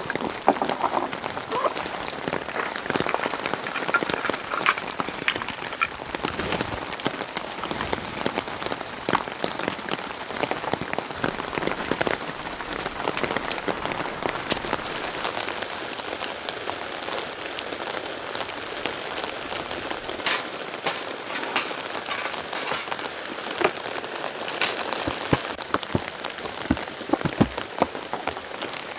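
Heavy rain falling steadily, with many sharp drops tapping on a nearby surface.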